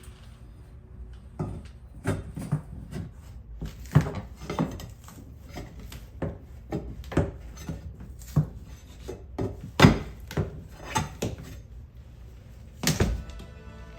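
A series of irregular knocks and clicks, with some rubbing and scraping, as objects are handled and set against hard surfaces. The loudest knock comes just before ten seconds in, and another near the end.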